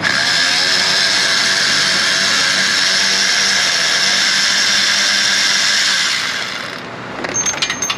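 A power tool runs steadily for about seven seconds, spinning out an exhaust manifold bolt, then stops; a few light metallic clicks follow near the end.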